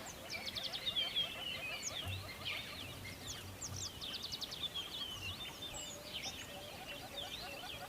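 A chorus of several small birds chirping and twittering, many short calls overlapping, some sweeping up or down in pitch and some in quick rattling trills.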